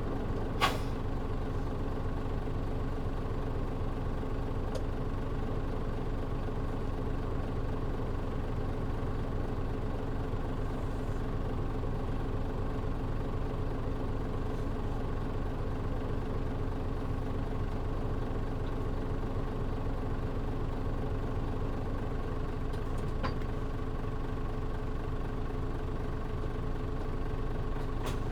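Mitsubishi Fuso KL-MP37JM bus's diesel engine idling steadily, heard from inside the cabin with the air conditioning off. A sharp click comes just under a second in, and a fainter one near the end.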